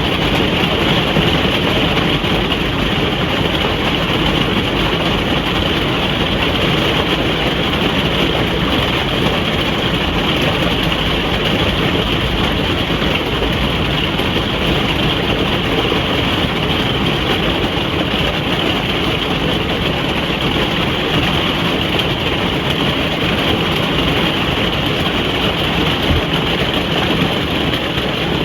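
Rain falling steadily on a caravan roof, heard from inside the caravan: a dense, even wash of noise with no breaks.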